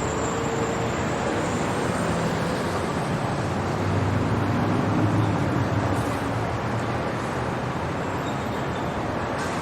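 City traffic noise: a steady wash of road noise, with one vehicle's engine hum swelling as it passes, loudest about halfway through.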